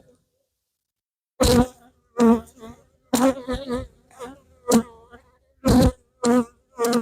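Honey bees buzzing close to the microphone in about eight short bursts, each a wavering hum that comes and goes as the bees fly past.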